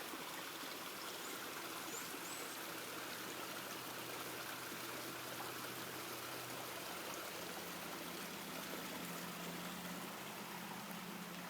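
Rain-swollen creek running fast: a steady, continuous rush of flowing water.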